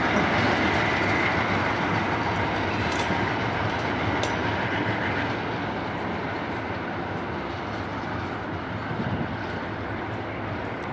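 A train rolling past on the track, its wheels clattering over the rails, the sound slowly fading as it moves away.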